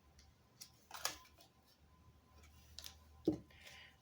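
A few faint, sharp clicks and light taps, like playing cards being handled and laid on a table, with the loudest about a second in and just after three seconds.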